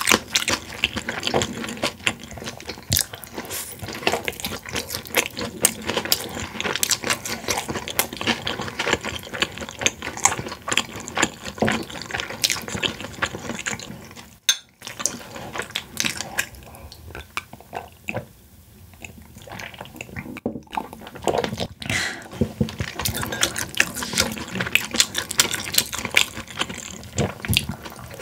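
Close-miked chewing of boneless fried chicken by two people: dense crunching with wet mouth clicks and smacks, easing off for a few seconds around the middle.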